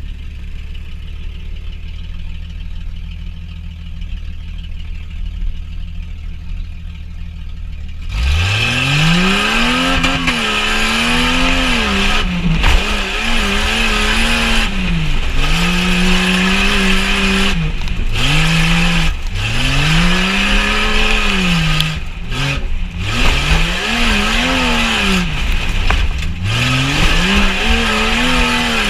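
Jeep Cherokee XJ engine idling with a low rumble, then from about eight seconds in revving hard in repeated surges, the pitch climbing and dropping every second or two.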